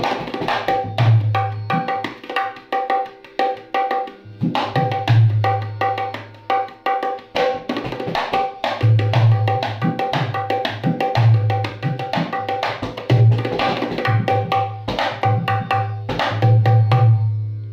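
Dholak played in a fast rhythm for a tone check. Deep bass strokes on the larger head are answered by quick, sharp strokes on the treble head, which ring at one steady pitch; the drum is tuned to scale 3.5.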